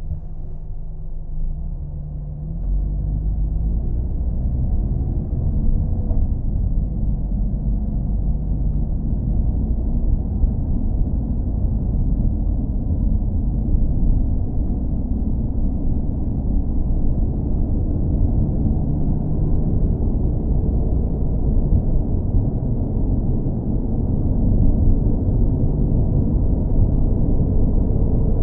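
Car engine and road noise as a steady low rumble, with faint engine tones gliding in pitch in the first seconds, growing louder about two and a half seconds in.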